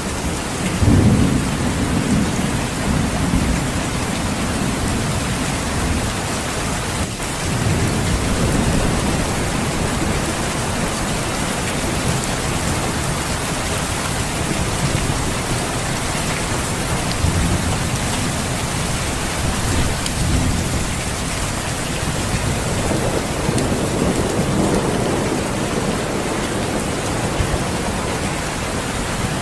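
Steady heavy rain, with low rolling thunder rumbles swelling and fading several times, the strongest about a second in.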